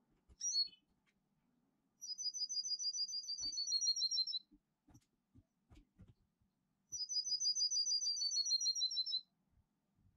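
Songbird singing a fast, high trill of evenly repeated notes, about two seconds long, sliding slightly down at its end; the same phrase comes twice, about five seconds apart, after a short chirp right at the start.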